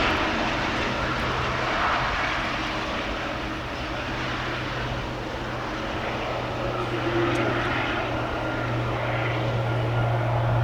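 Boeing 787-9 airliner landing, its jet engines a steady rushing noise over a low hum.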